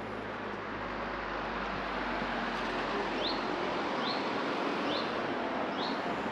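Steady wind and road rush on the microphone of a riding motorcycle, with four short, high, rising chirps about a second apart in the second half.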